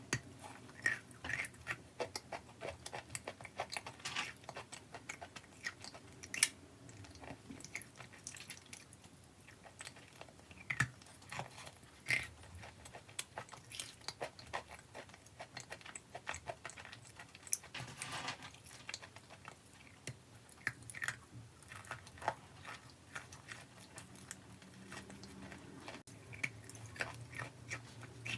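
A person biting and chewing something hard and crunchy: a run of irregular sharp crunches and crackles with softer chewing between.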